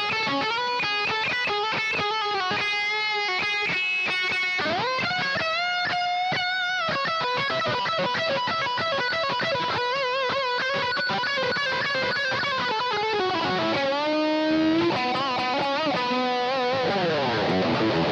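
Jackson RR-V electric guitar played through a Boss GT-8 multi-effects processor and recorded direct. It plays sustained lead notes with vibrato and bends, a rising slide about four seconds in and a falling slide near the end.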